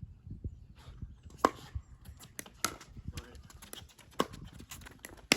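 Pickleball paddles hitting a hard plastic ball in a rally: sharp pops about every second and a half, the loudest near the end, with fainter ticks between them.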